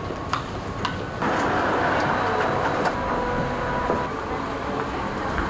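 Vehicle noise: a few sharp clicks, then from about a second in a louder, steady rumble with faint steady tones in it.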